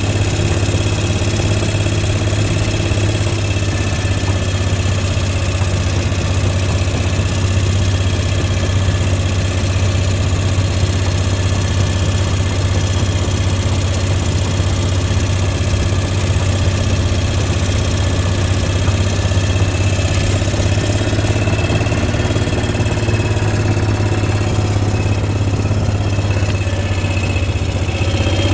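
A vehicle engine running steadily at low speed with a strong, even low hum.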